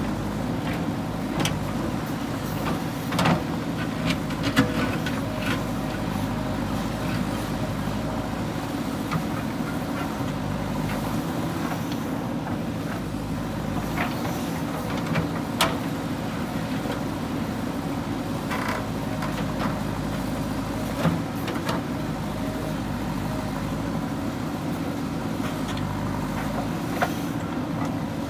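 JCB 3DX backhoe loader's diesel engine running steadily under work, with a few sharp knocks scattered through.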